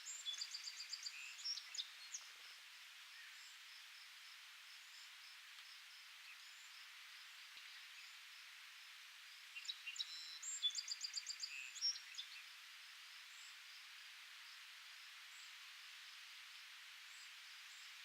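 A songbird sings a short, high, trilled song twice, about ten seconds apart, over a steady faint hiss of breeze rustling leaves.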